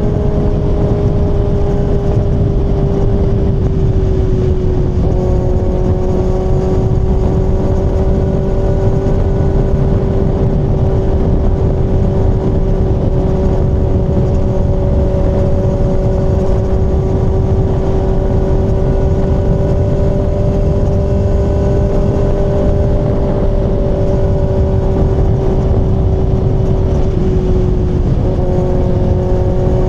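Kawasaki ZX-6R inline-four engine running at steady revs while cruising, over a heavy rush of wind and road noise. Its pitch eases slightly about four seconds in and again near the end.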